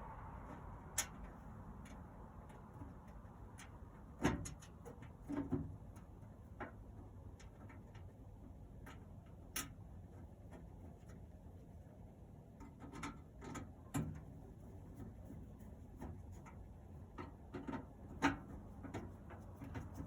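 Irregular metallic clicks and knocks of screws and a screwdriver being handled and set into the sheet-metal panels of a Camp Chef SG pellet smoker, over a steady low hum.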